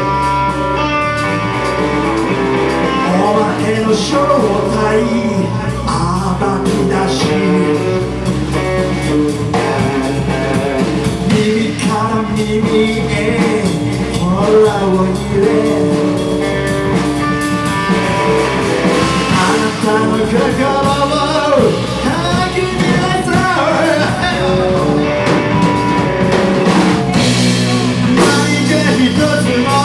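Live rock band playing a song: a singer over electric guitar, bass and drum kit.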